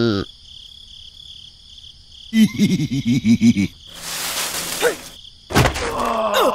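Steady insect chirring as background ambience. Over it come two runs of quick repeated voice-like syllables, like cartoon chatter, then a short hiss and a thump, followed by a falling vocal cry.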